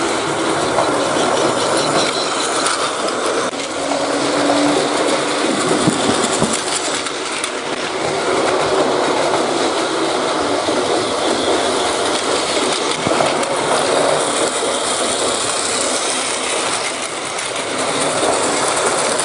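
A train running along its track: a steady rumbling rattle of wheels on rails.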